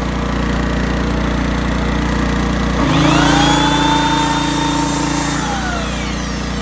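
An 1980s Honda generator's engine running steadily under load, its carburetor freshly tuned to run well. About three seconds in, an electric power tool powered by it spins up with a rising whine, runs for about two and a half seconds, and winds down with a falling whine.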